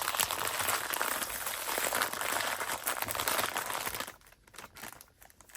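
Packaging crinkling as it is handled and unwrapped by hand, dense and continuous for about four seconds, then dropping to a few soft crackles.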